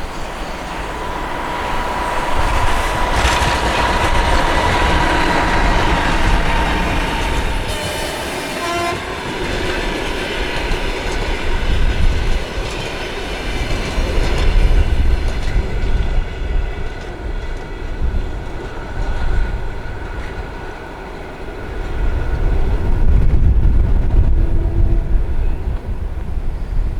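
A train passing on the line, with a long steady horn note over the first several seconds and gusty wind buffeting the microphone.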